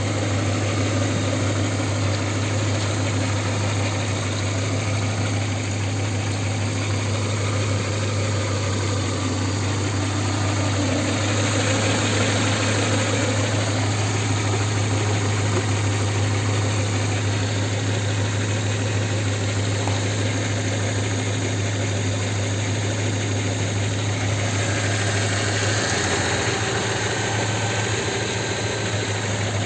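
Audi A8's 4.2-litre ABZ V8 engine idling steadily, warmed up to operating temperature.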